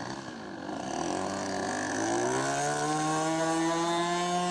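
A radio-controlled scale floatplane's small engine revving up: its pitch climbs from about a second in and levels off at a steady high throttle near the end.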